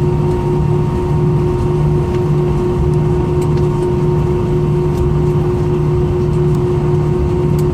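Steady cabin noise inside an Airbus A320: engines and air systems running evenly, with a constant hum and a low throb that pulses about twice a second.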